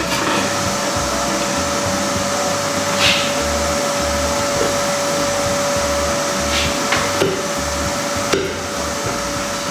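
A steady rushing machine noise with a constant hum, broken by a few light knocks.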